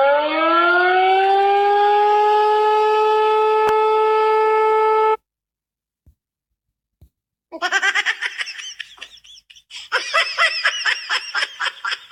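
A loud horn-like blare that slides up in pitch, holds one steady note for about five seconds and cuts off suddenly. After a short pause comes rapid, high-pitched giggling.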